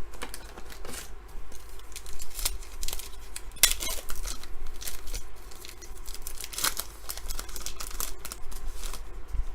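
Trading cards being handled and slid against each other, a run of irregular crisp scrapes and clicks with some crinkling.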